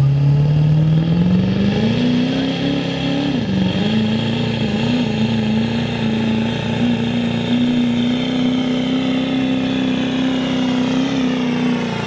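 Turbocharged diesel pickup engine revving up over about two seconds, dipping once briefly, then held at high revs under load as the truck pulls the sled.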